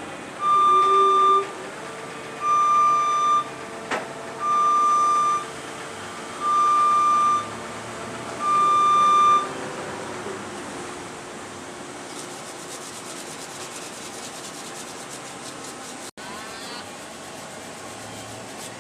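An electronic beep sounding five times, each about a second long and about two seconds apart, over a steady mechanical background noise that carries on after the beeps stop.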